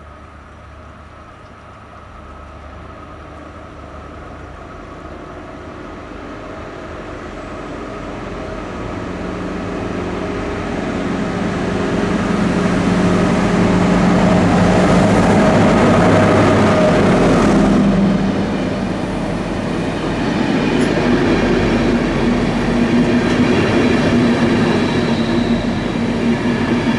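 HŽ series 1142 electric locomotive hauling a passenger train past at speed. It grows steadily louder on approach, with a steady hum that is loudest as the locomotive goes by about eighteen seconds in. After that come the rolling rumble and clatter of the coaches' wheels on the rails.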